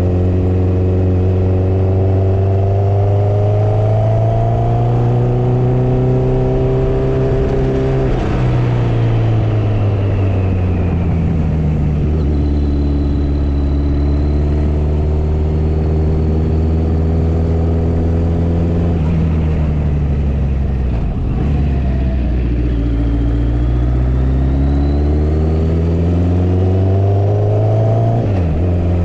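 Motorcycle engine running on the road: its pitch climbs, drops sharply about eight seconds in and sinks, holds steady for several seconds, then climbs again and drops sharply near the end, over steady wind and road noise.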